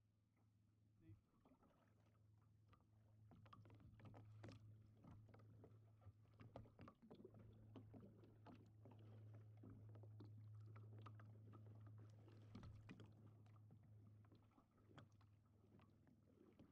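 Faint irregular knocks, clicks and water sounds from paddling a kayak, over a steady low hum.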